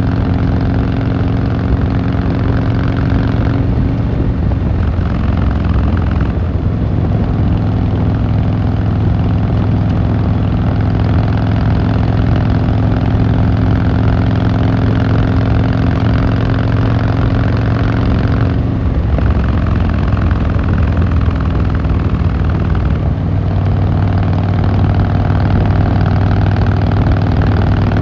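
Harley-Davidson Fat Boy Lo V-twin engine and exhaust running under way at steady revs, with a few brief dips in the note.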